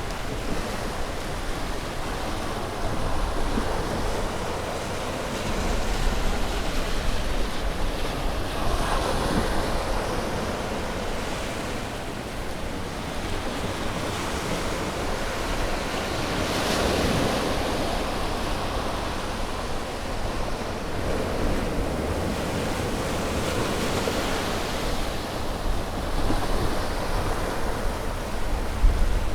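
Ocean waves breaking and washing on a shore, a continuous roar of surf that swells as each wave comes in, with a few stronger surges. Some wind noise on the microphone.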